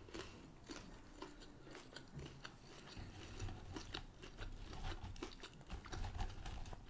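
Quiet chewing of a chicken nugget, with small, scattered mouth clicks.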